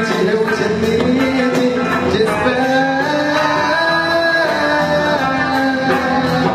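Live band music with a steady drum beat and sustained melodic lines, with some male singing.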